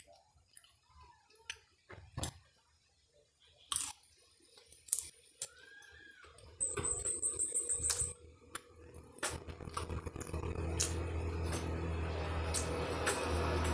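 Scattered sharp crunches and clicks of crispy fried cempedak skin being bitten and chewed, with a short burst of high, rapid ticking about halfway through. Over the last few seconds a motor vehicle's engine grows steadily louder and becomes the loudest sound.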